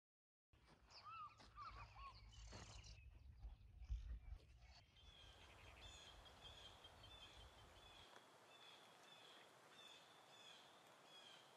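Birds calling: a few warbling, up-and-down calls in the first seconds, then a steady run of short high chirps, several a second. A low rumble sits under the first eight seconds, with a bump about four seconds in that is the loudest moment.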